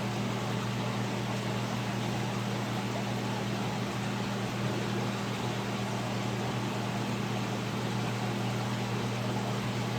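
Steady low electrical hum with an even hiss from running aquarium equipment such as pumps and filtration.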